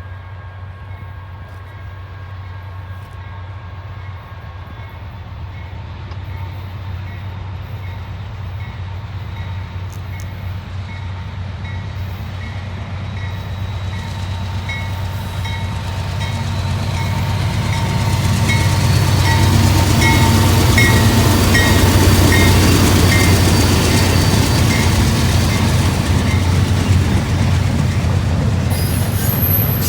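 Diesel-hauled freight train approaching and passing, its locomotives' low engine drone growing steadily louder until about two-thirds of the way in, then holding loud under the rumble of the rolling cars. A short high tone repeats evenly through much of it.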